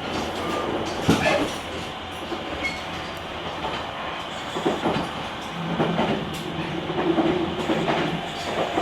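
Running sound of a JR Kyushu 883 series limited express electric train (GTO-inverter motor car), heard from the vestibule deck: steady wheel-and-rail rumble with several rail-joint knocks. A low steady hum comes in for a few seconds in the second half.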